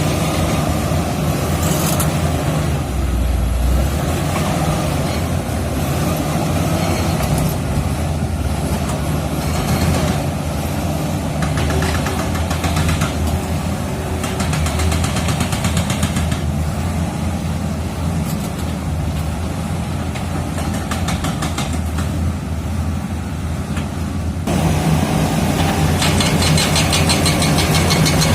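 Komatsu D85E-SS crawler bulldozer's diesel engine running continuously under varying load, with a rapid clatter at times. Near the end it gets louder and brighter.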